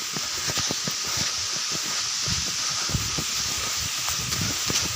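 Water cascading down a small waterfall: a steady, even rushing, with soft irregular low thumps underneath.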